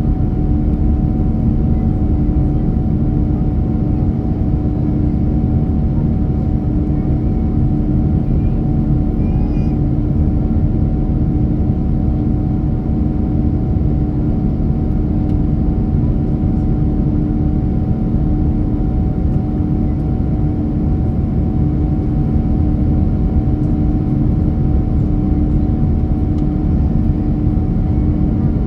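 Steady jet airliner cabin noise: a constant low rumble of the engines and airflow with a steady hum on top, unchanging throughout.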